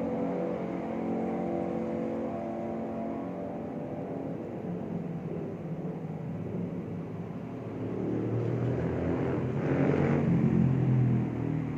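Road traffic heard from below. A steady engine hum gives way to a louder vehicle engine that swells and passes near the end.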